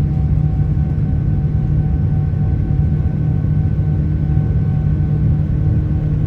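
Steady cabin noise inside a Boeing 787-9 airliner: a constant low rumble from its Rolls-Royce Trent 1000 engines and the airflow, with a faint steady whine above it.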